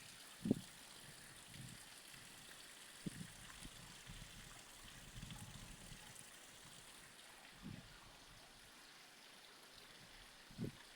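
Faint steady trickle of running water, with a few brief, soft low thumps, the loudest about half a second in.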